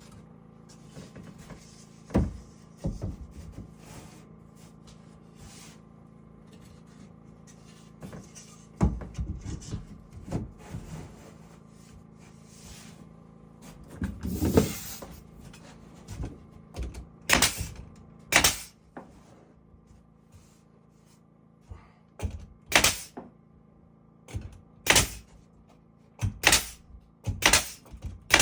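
Carpentry knocks and thuds on wood, scattered at first, then a run of sharp blows about once a second near the end, over a faint steady hum.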